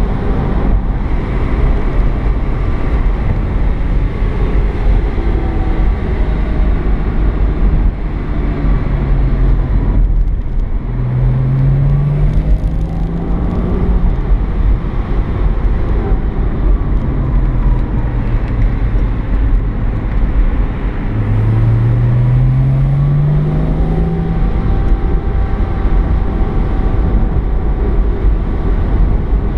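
Porsche 987 Boxster S flat-six engine heard from inside the cabin while driving, over a constant low rumble of road noise. The engine note holds steady and then rises in pitch twice as the car accelerates: once about a third of the way in, after a brief lift, and again past two-thirds.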